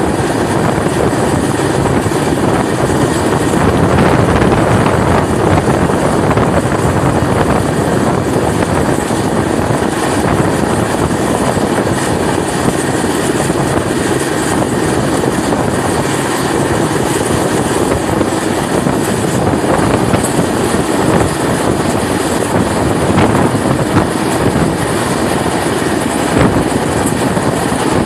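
Passenger train running at speed, heard from an open door: a steady rumble of wheels on the rails with wind rushing past the microphone.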